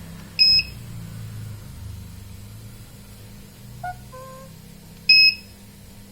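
Electronic beeper on a Polytron automatic washing machine's control board sounding two short, high-pitched beeps about five seconds apart. A faint quick run of three lower notes comes between them, over a low steady hum.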